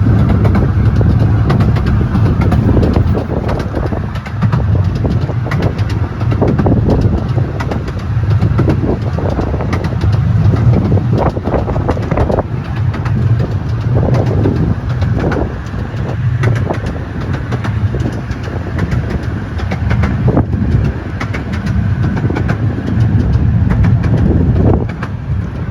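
Steady low rumble of a moving vehicle, with scattered clicks and knocks through it.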